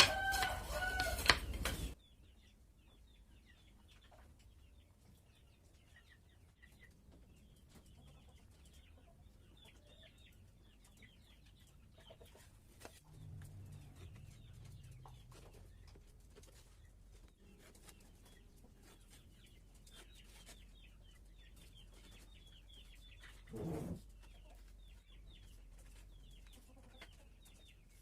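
Domestic fowl calling: a loud pitched call for the first two seconds, then faint high chirping and clucking throughout, with one short knock about 24 seconds in.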